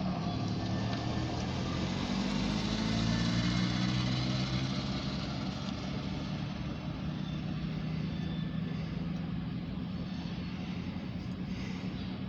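An engine running with a steady low hum that rises slightly in pitch over the first few seconds, then holds.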